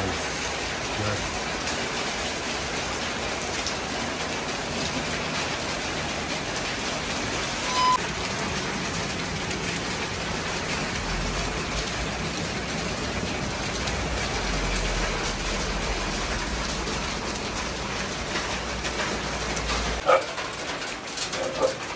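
Heavy rain pouring down steadily, a dense even hiss; it drops away abruptly about twenty seconds in with a sharp click.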